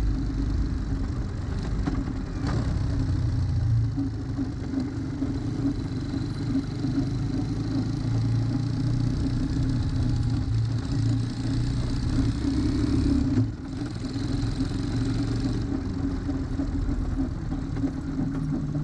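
Vehicle rolling at low speed with a rotating abnormal noise, a pulsing 'wuon-wuon' drone that the owner suspects is a brake rotor rubbing. The drone holds steady but swells and fades, with a brief dip about thirteen seconds in.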